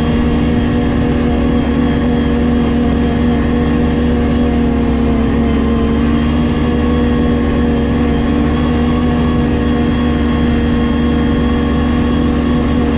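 Ski-Doo GSX 600 HO snowmobile's two-stroke twin engine running at steady throttle on the trail, its pitch rising a little near the start and then holding even.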